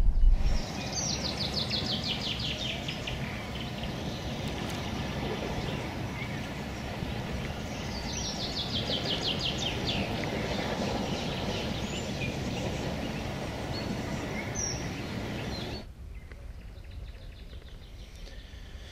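A songbird singing a fast descending trill of short high notes, twice, about a second in and again around eight seconds in, over a steady outdoor background hiss. The background turns quieter near the end.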